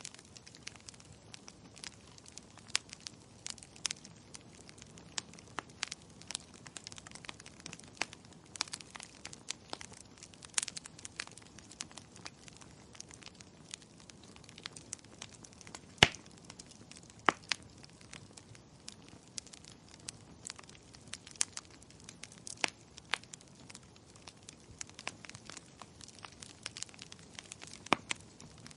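Wood fire crackling: irregular sharp pops and snaps over a faint low hiss, with a louder pop about halfway through.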